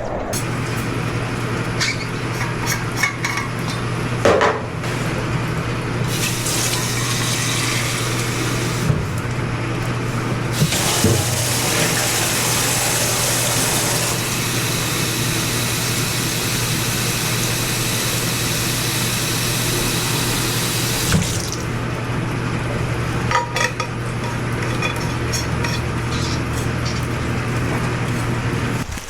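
Water running or pouring, in two spells, with scattered clinks of dishes, over a steady low hum.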